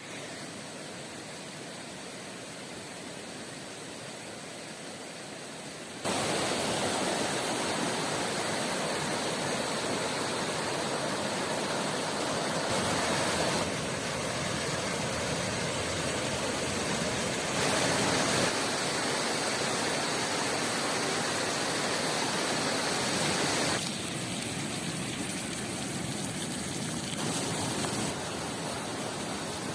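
Steady rush of flowing river water, quieter at first, then abruptly louder about six seconds in and shifting in level several more times.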